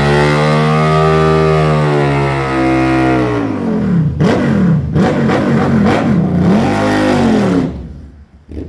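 Motorcycle engine held at high revs for about three seconds, then revved up and down about five times in quick blips before it drops off near the end.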